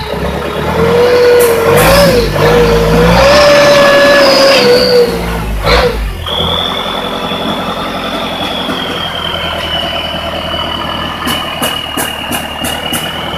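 Toyota 15B-T four-cylinder turbo-diesel engine revved for about five seconds, then dropping back to a steady idle. A high turbo whistle holds on and slowly falls in pitch; the turbo's whistling is normal for this engine.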